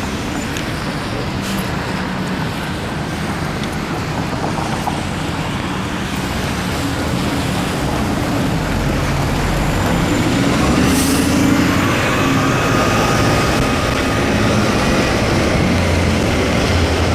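Steady traffic and road noise on a wet city street, heard from a moving e-bike, swelling somewhat louder about two-thirds of the way through.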